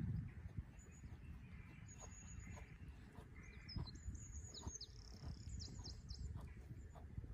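Small birds chirping in short high calls, with a run of quick downward-sweeping calls around the middle, over a low rumble and scattered faint clicks.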